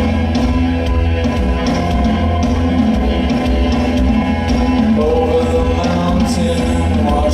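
Live rock band playing with singing, drums, bass and electric guitar, loud and steady.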